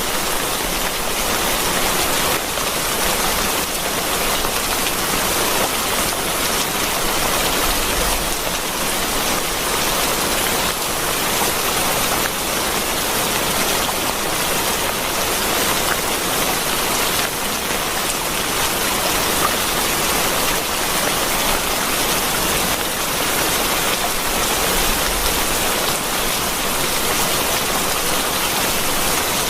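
Steady heavy rain: a dense, even hiss of falling rain and drops hitting a surface, with no letup.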